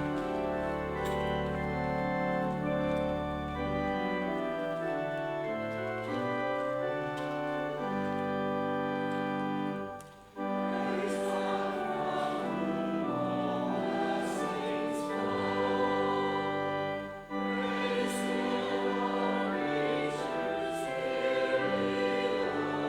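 Choir singing a slow sacred anthem with instrumental accompaniment. Held chords lead in, the music breaks off briefly about ten seconds in, and the singing carries on after.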